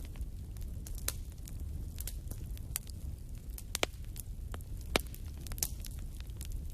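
Wood fire burning in a fireplace, crackling with irregular sharp pops over a low steady rumble. The loudest pops come about four and five seconds in.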